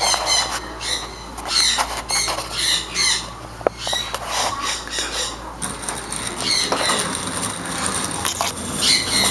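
A group of birds squawking, with many short, shrill calls following one another in quick succession.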